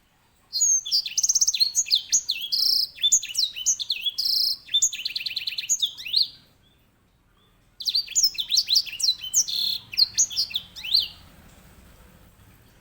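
Grey singing finch (edel sanger) singing its loud, rolling song: two rapid phrases of chirps, trills and sweeping notes, with a pause of about a second and a half between them.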